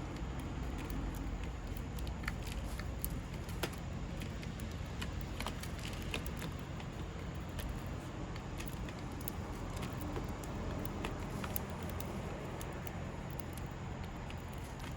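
Steady low outdoor rumble, such as distant traffic, with scattered light clicks and ticks throughout, likely small birds pecking and hopping on the feeding table.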